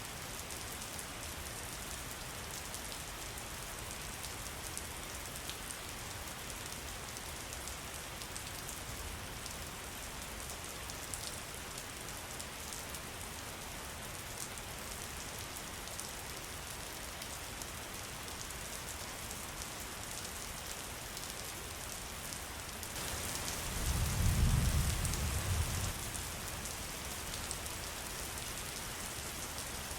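Steady rain falling, an even hiss. About three quarters of the way through, a low rumble swells for about three seconds and the rain grows louder with it.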